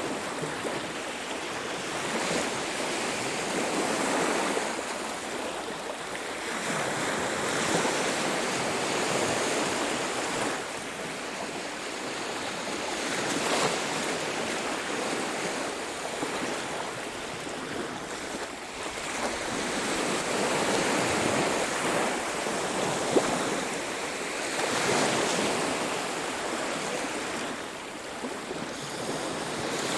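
Sea surf breaking and washing on a beach, the rush swelling and falling every few seconds, with one brief click about three quarters of the way through.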